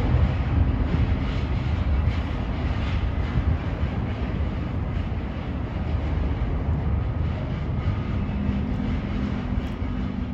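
Jet aircraft engines running, a steady deep rumble and roar with a faint steady hum.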